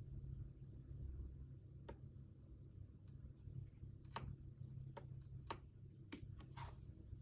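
A few sparse, irregular light clicks and taps over a low steady room hum, ending with a short scrape near the end, like small desk-work sounds at a study desk.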